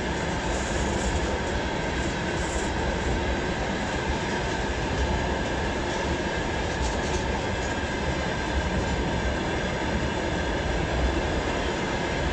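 Railway tank cars of a long freight train rolling past close by: a steady rumble and rush of steel wheels on the rails.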